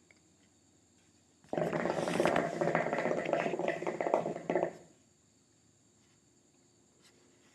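Hookah water bubbling loudly for about three seconds as smoke is drawn through the base, starting suddenly and stopping sharply.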